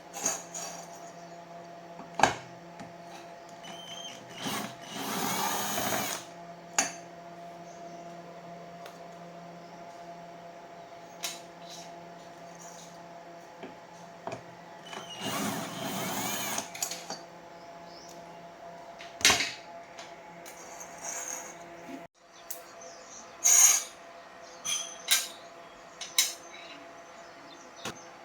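A handheld power drill or electric screwdriver runs in two short whirring bursts, among sharp clicks and knocks of tools on metal. Under it runs a steady electrical hum that cuts out briefly about three-quarters of the way through.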